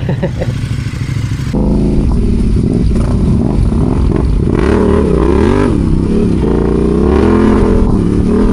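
Adventure motorcycle engine running under load off-road, its pitch rising and falling as the throttle opens and closes. About one and a half seconds in, the sound changes abruptly to this louder engine note.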